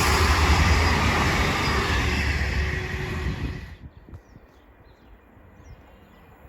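A train passing at speed, its loud running noise slowly fading, then cutting off suddenly a little over halfway through and leaving only faint background sound.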